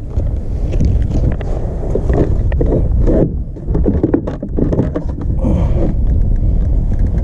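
Wind buffeting the microphone in a loud, steady low rumble, with scattered clicks and knocks of handling partway through.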